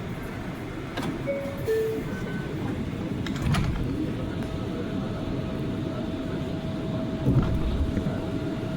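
R179 subway train running on the rails as it pulls out of a station: a steady rumble of wheels on track with a few sharp clicks and knocks. A few brief squeaks come in the first two seconds, and a steady tone sets in about four seconds in.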